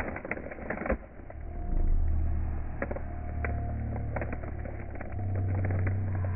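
A vehicle engine running steadily after a few knocks and clicks, its hum stepping up in pitch about five seconds in.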